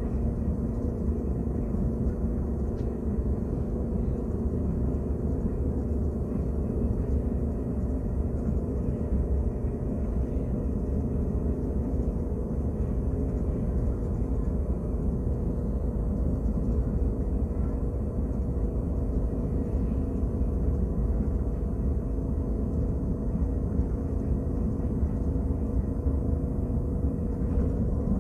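KTX high-speed train running at speed, heard inside the passenger cabin as a steady low rumble with a faint hum.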